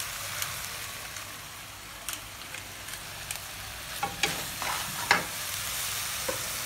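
Crab pieces sizzling in hot oil in a wok, a steady hiss, with a wooden spatula knocking and scraping against the pan a few times, busier in the second half and loudest about five seconds in.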